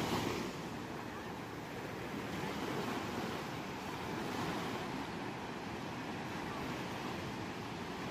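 Ocean waves surging and washing onto a shore in a steady rush, a louder wave fading away at the start and gentler swells rising about three and four and a half seconds in.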